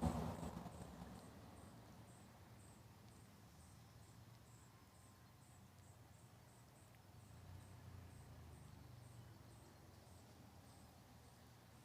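Faint, evenly repeated high-pitched chirps, about two a second, over near silence.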